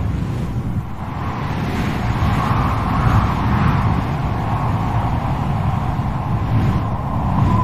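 Strong wind blowing in gusts: a deep rumble under a howling whoosh that swells about three seconds in and eases off again.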